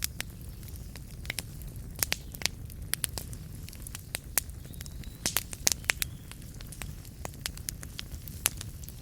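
Wood fire burning in a fireplace, with a steady low rumble of the flames and frequent sharp crackles and pops of the burning logs, bunched in a quick cluster about five to six seconds in.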